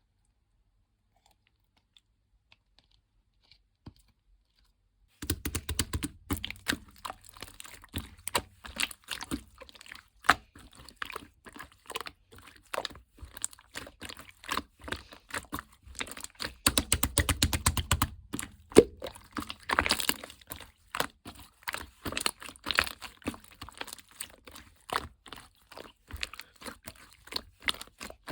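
Close-up crinkling and crackling of paper or plastic being handled, with many sharp clicks and a few heavier thumps, starting about five seconds in after near silence.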